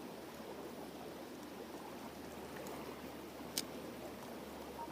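Creek water flowing steadily, an even rush, with one short click about three and a half seconds in.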